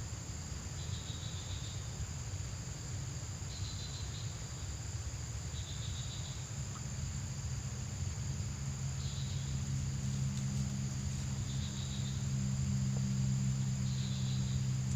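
Insects calling: a steady high buzz with a short chirp repeated every couple of seconds. A low steady hum grows in from about halfway through.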